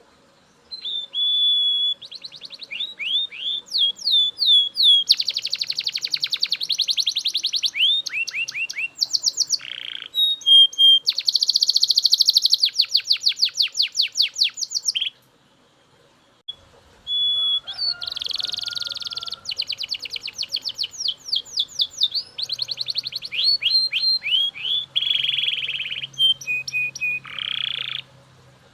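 Male Belgian canary singing loudly in two long phrases of fast trills, rolls and sliding whistled notes, broken by a pause of about two seconds midway.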